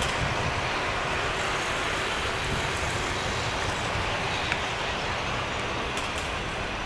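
Airbus A320 jet engines, a steady broad rush of noise holding level throughout.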